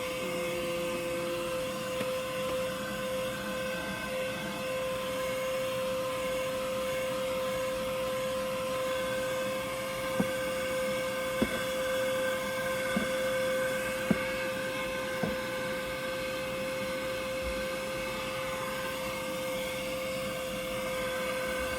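Vacuum cleaner motor running steadily with a constant whine. A few short knocks come around the middle.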